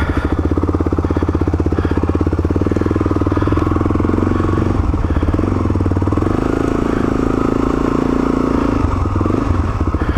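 Motorcycle engine running steadily at low revs close by, its firing pulses even throughout.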